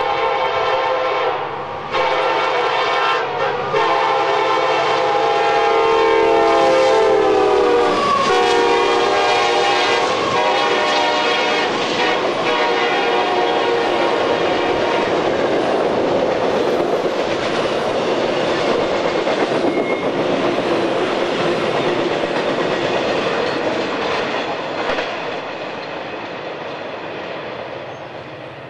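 CSX diesel freight locomotive sounding its multi-note air horn at a grade crossing: three blasts, the last one long, with the chord dropping in pitch as the locomotive passes about eight seconds in. Then the freight cars, truck trailers and containers on flatcars, rumble and clatter past on the rails, fading near the end.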